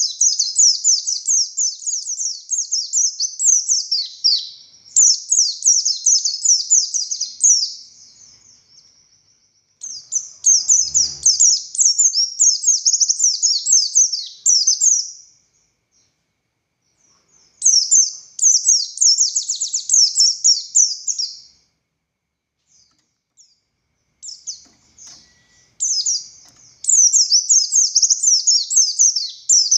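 Buxtoni white-eye (pleci) singing hard in long, fast, high-pitched chattering runs of several seconds each, broken by pauses of one to four seconds.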